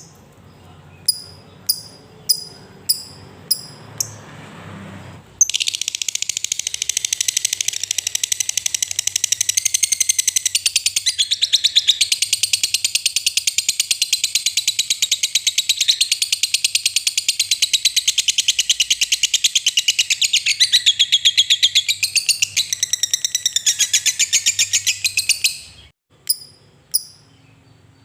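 Lovebird giving sharp single chirps about every half second (ngetik), then breaking into ngekek: a long unbroken, rapidly pulsing high chatter that runs for about twenty seconds, followed by a few more chirps.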